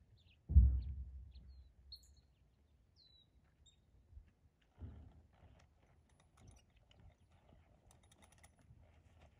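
A few short, high bird chirps with falling pitch, outdoors. A low thump about half a second in is the loudest sound and fades over about a second; a smaller thump comes near five seconds.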